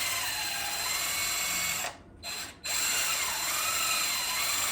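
Power drill spinning a buffing pad against a headlight lens, its whine rising and falling under hand pressure. It cuts out about two seconds in, gives a short burst, then runs again.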